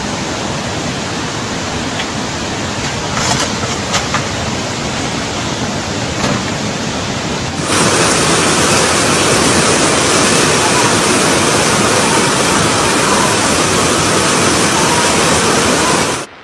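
Steady rush of fast-flowing floodwater. About eight seconds in it cuts to a louder, brighter rush of water.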